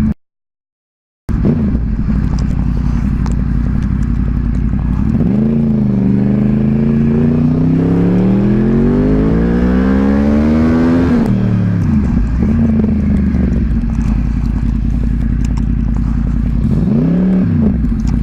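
Motorcycle engine running at speed after a brief dropout to silence. About five seconds in, its pitch climbs steadily for several seconds as it accelerates, then falls sharply; a shorter rise and fall comes near the end.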